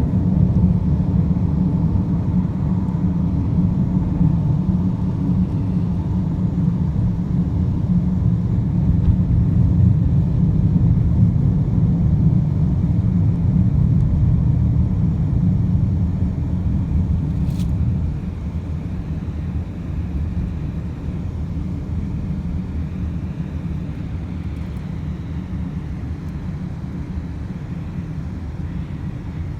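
Car on the move: steady low road and engine rumble that eases off a little about two-thirds of the way through.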